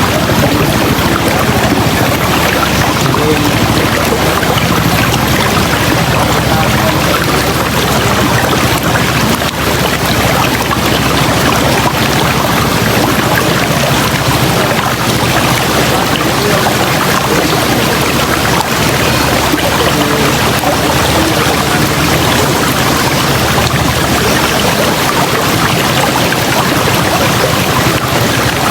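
River water rushing steadily: a loud, even, unbroken noise.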